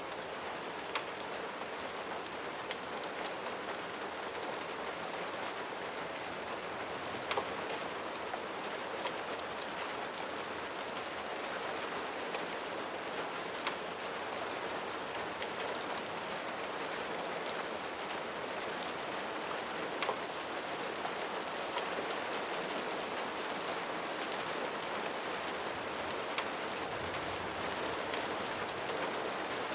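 Steady rain falling, with a few scattered sharp ticks.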